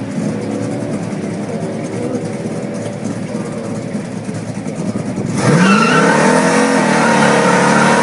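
A muscle car's engine running at a lumpy idle, then about five seconds in revved hard and loud, its pitch climbing and holding high.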